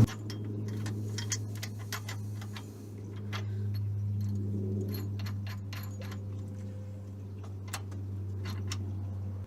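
Scattered light metallic clicks and clinks as a crankshaft pulley locking tool is fitted by hand, over a steady low hum.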